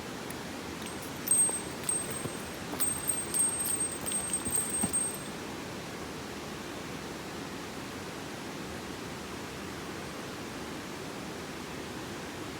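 Mountain stream running steadily. Between about one and five seconds in comes a run of bright, high-pitched ringing tinkles, like small bells or chimes.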